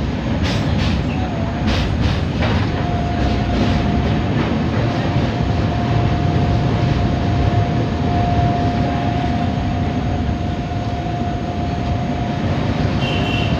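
Train running over a riveted steel truss railway bridge, heard from inside the carriage: a steady rumble of wheels on rails, with a few sharp clicks in the first three seconds. A steady high whine sets in about two and a half seconds in.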